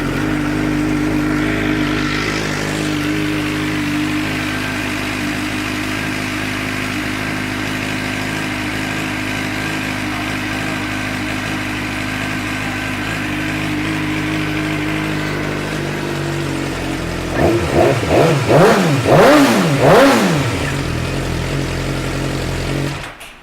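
2006 Suzuki GSX-R600 inline-four engine idling steadily, then revved in a few quick blips about three-quarters of the way through, settling back to idle and switching off just before the end.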